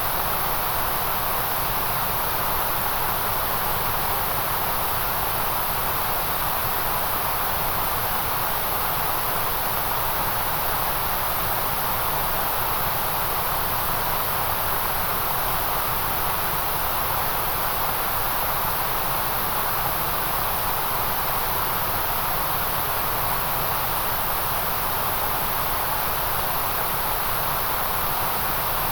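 Steady white noise: an even, unbroken hiss that does not change, strongest in the midrange and the highest treble.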